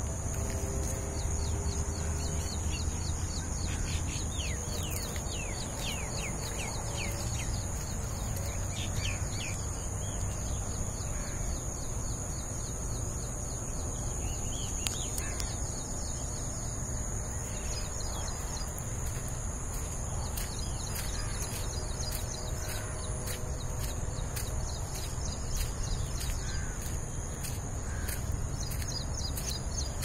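Outdoor ambience of birds calling in many quick, falling chirps, thickest in the first dozen seconds, over a steady thin high-pitched whine and a low rumble.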